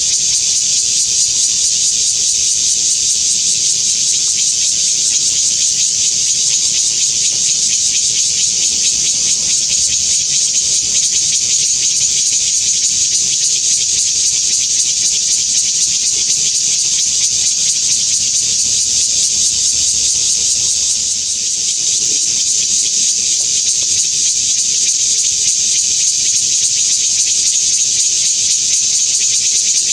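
Bear cicada (Cryptotympana takasagona) singing: a loud, steady, high-pitched buzzing drone that eases briefly about two-thirds of the way through.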